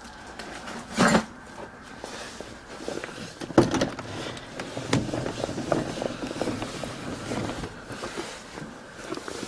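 Two sharp knocks, about a second and three and a half seconds in, with irregular shuffling, rustling and small knocks between them; no engine running.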